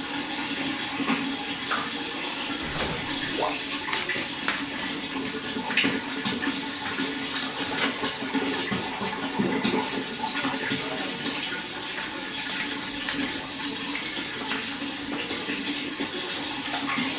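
Running water splashing and trickling steadily, with small splashes scattered through it.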